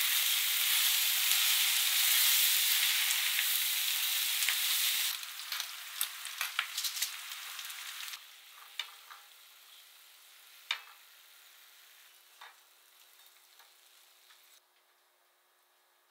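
Potato wedges and onion sizzling as they fry in butter in a frying pan: loud for about five seconds while being stirred with chopsticks, then much quieter, with scattered sharp clicks of chopsticks against the pan.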